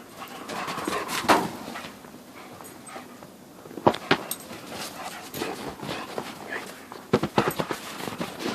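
A German shepherd playing in snow: irregular scuffs and sharp crunching thumps from its movement, loudest about four seconds in and in a quick cluster about seven seconds in.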